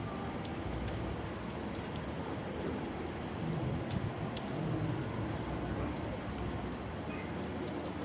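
Steady rain falling, with scattered individual drops ticking up high. A low rumble swells and fades around the middle.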